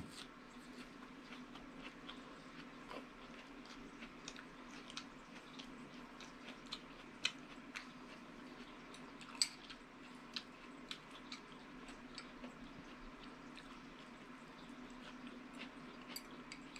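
A person chewing angel hair pasta, close to the microphone: soft, wet mouth clicks and smacks scattered irregularly over a steady low hum.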